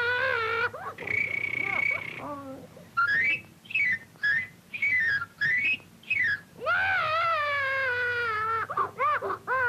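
A cartoon character wailing in long, wavering cries. Between the cries come a held high whistle tone and a run of quick whistled chirps that swoop up and down.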